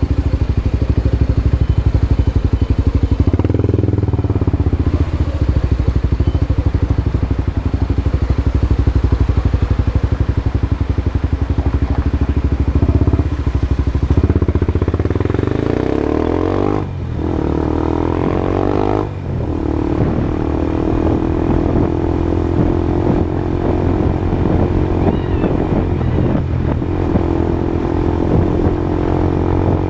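Honda CB Twister's single-cylinder engine running loud through a new aftermarket exhaust. The pitch climbs and drops off sharply twice, about 17 and 19 seconds in, as on gear changes under acceleration, then holds steady.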